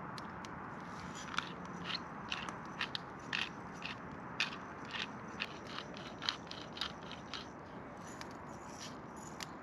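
Campfire crackling: irregular sharp pops and snaps over a steady hiss, busiest through the middle.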